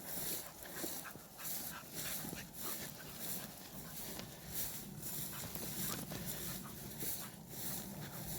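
Dog panting in a steady rhythm.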